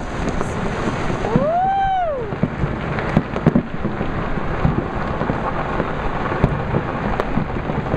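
Dense, continuous crackle and popping of many firecrackers and fireworks going off across a city, with scattered louder bangs. About two seconds in, a whistling tone rises and falls over about a second.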